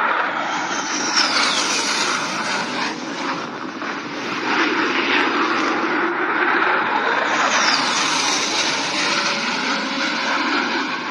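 F-35 fighter jet engine noise, loud and sustained. A high falling whine comes about a second in and again around seven and a half seconds, as jets pass low.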